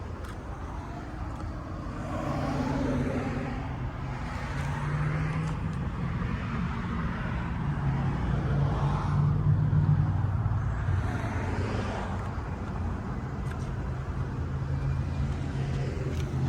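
Outdoor road traffic: cars passing, the noise swelling and fading several times over a steady low hum, with a short knock at the very end.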